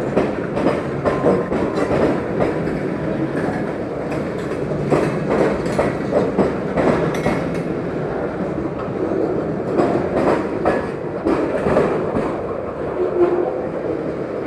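Freight train cars rolling past slowly, steel wheels clacking irregularly over the rail joints.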